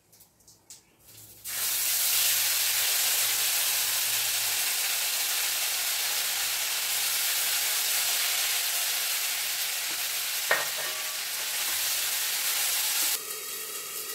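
Ground spice paste (green chilli, cumin and ginger) frying in hot oil in a kadai on a gas stove. A loud, steady sizzle starts suddenly about a second and a half in and stops abruptly near the end, with one sharp tap about ten seconds in.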